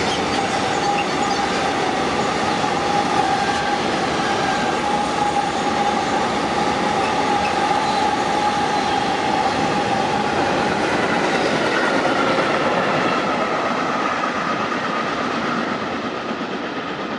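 Train running past on the rails, a steady rumble and clatter of wheels with a sustained high squeal from the wheels that shifts higher in pitch about two-thirds of the way through; the sound starts to fade near the end as the train moves away.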